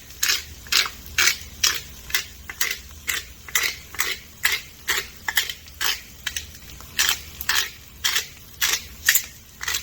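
Pepper mill being turned by hand, cracking peppercorns in steady, even crunches about twice a second.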